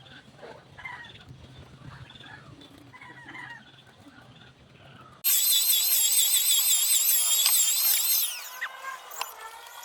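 Faint chicken clucking, then about five seconds in a loud, high-pitched power tool starts abruptly. It runs for about three seconds, then winds down with falling pitch.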